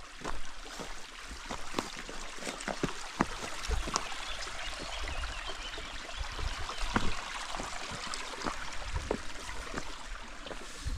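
Waterfall water rushing steadily, with scattered short clicks and crunches over it.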